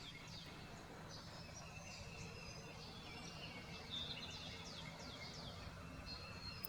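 Several songbirds singing at once in a dawn chorus, faint, with many quick overlapping chirps and short downward-sliding notes. A low steady hum runs underneath.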